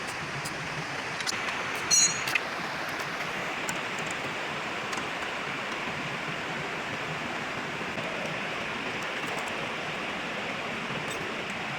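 Steady hissing noise with one short, sharp ringing clank about two seconds in, the loudest moment.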